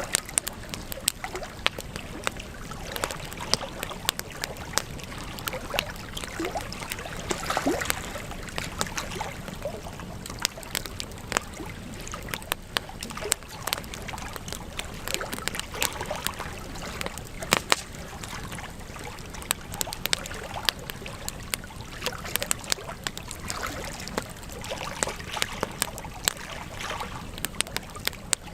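Wood fire crackling in a fireplace: irregular sharp pops and snaps over a steady hiss of the flames.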